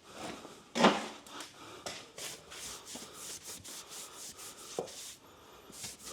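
Damp sponge rubbing and scrubbing over set cornice cement on drywall patches, a run of short scratchy strokes with one louder scrape about a second in.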